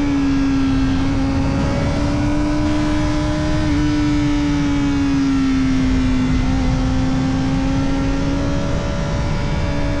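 Kawasaki Ninja ZX-4RR's 399 cc inline-four running at steady, fairly high revs through an Arrow Indy Race Evo titanium exhaust with its dB killer fitted, the pitch sagging and climbing gently as the bike rides along. Near the end the tone breaks briefly, then picks up again slightly higher. A low rushing noise runs underneath.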